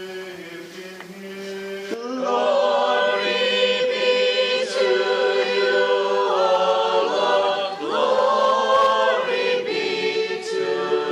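Church choir singing unaccompanied in harmony, a liturgical response in sustained chords. A single held chanted note sounds for the first two seconds before the full choir comes in strongly.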